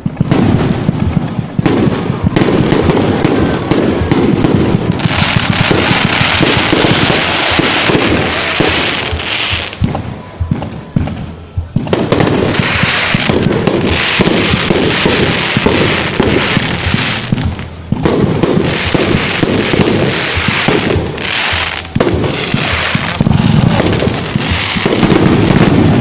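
Fireworks going off nonstop: a dense, rapid barrage of pops and bangs, with long stretches of hissing crackle.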